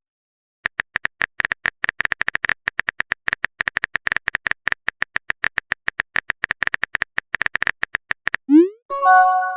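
Rapid keyboard-typing click sound effect, around eight to ten clicks a second, as a text message is typed out. Near the end a quick rising swoosh and a short chime mark the message being sent.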